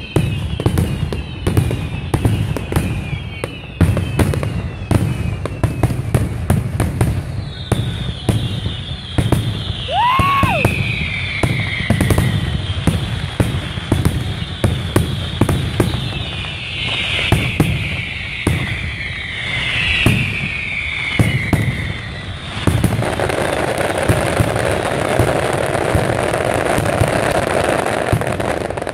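Fireworks going off in quick succession: a rapid run of sharp bangs mixed with whistling tones that fall in pitch. About three-quarters of the way in, the bangs give way to a steady dense crackle.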